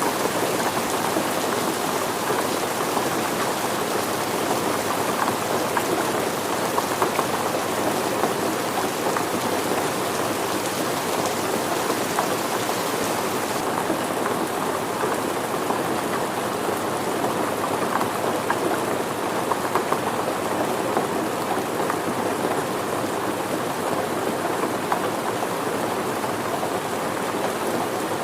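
Steady rain falling: a dense, even hiss with many individual drops striking surfaces. About halfway through, the highest part of the hiss becomes a little softer.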